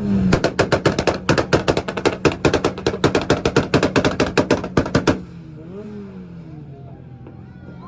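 Honda car engine held against a two-step launch-control rev limiter, firing a rapid, even string of loud exhaust pops and bangs for about five seconds. It then cuts off suddenly and the revs fall back to a steady idle.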